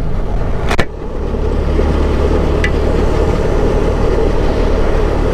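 Benelli motorcycle running under way with a steady low rumble of engine and wind noise on the microphone, and a sharp knock about a second in.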